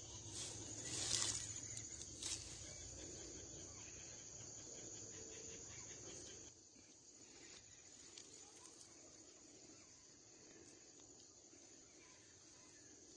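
Insects buzzing in a steady, high-pitched chorus, with a short louder noise about a second in; the sound drops quieter about halfway through.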